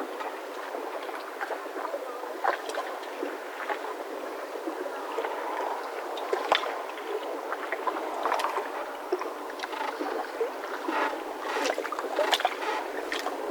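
Yacht mooring ropes creaking and squeaking under strain at irregular moments, with short sharp clicks, over a steady noisy background.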